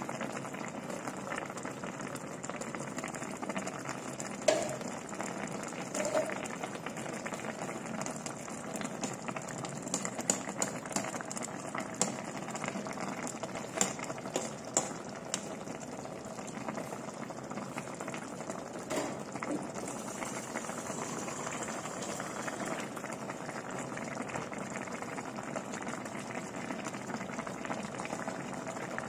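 Coconut milk with taro leaves simmering in a pot: a steady bubbling with scattered pops.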